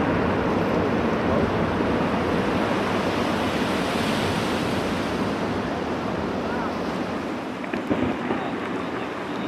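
Water washing and churning steadily, with wind buffeting the microphone, easing off a little towards the end.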